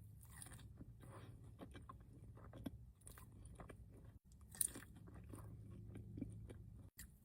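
Faint close-up chewing and biting of food, with soft crunches and a sharper crunch or click a few seconds in.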